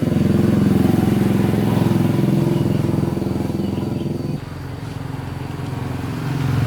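Motorcycle engine running steadily. It drops back a little over four seconds in and picks up again near the end.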